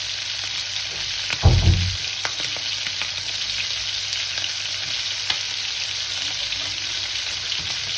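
Chicken pieces frying in hot oil in a pan: a steady sizzling hiss with scattered small pops. A dull thump about a second and a half in.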